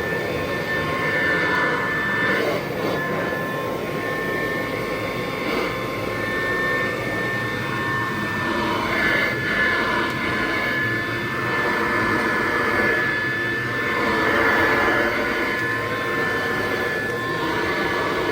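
1963 Kirby Sanitronic VII upright vacuum cleaner running on carpet: a steady motor-and-fan rush with a high whine, swelling and easing a little in level as it works.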